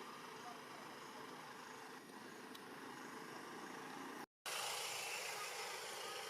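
Steady outdoor background noise with no clear single source. It drops out completely for a moment a little past four seconds in, then comes back somewhat louder.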